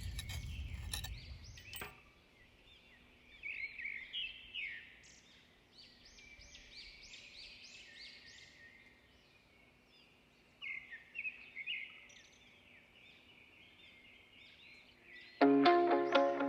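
Small birds chirping and singing outdoors in short repeated phrases, over a low rumble with a few clicks in the first two seconds. About a second before the end, plucked-guitar music comes in loudly.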